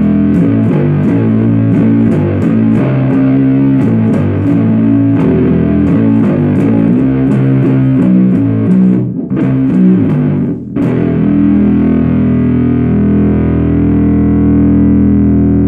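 Bass guitar through a Supercoolpedals 77 Fuzz Blender, an op-amp Big Muff-style fuzz, playing a fast distorted riff with two short breaks partway through. It then holds one note that rings out low and booming.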